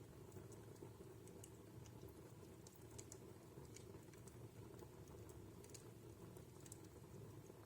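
Wood fire burning in a fireplace, faint, with scattered irregular crackles of the burning logs over a low steady rumble of the flames.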